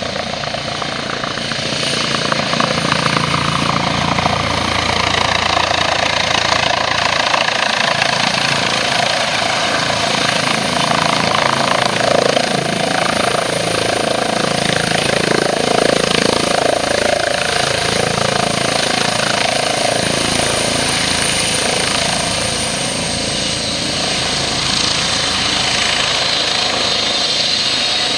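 Eurocopter EC135 T2+ medical helicopter running, its rotor and turbines making a loud, steady noise with a thin high turbine whine above it.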